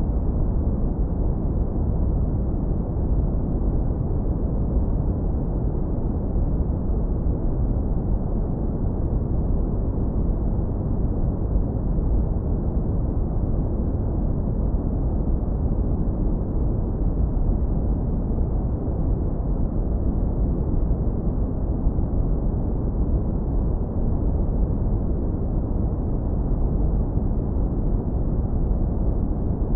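Deep brown noise, heavily low-pass filtered so only a warm low rumble remains, running steady and unchanging with no events.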